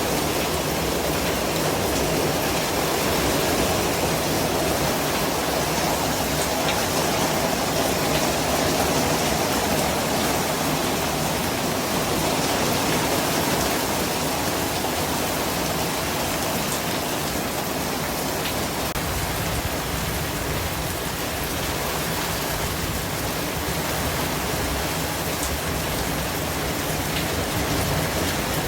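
White noise: a steady, even hiss with a rain-like texture.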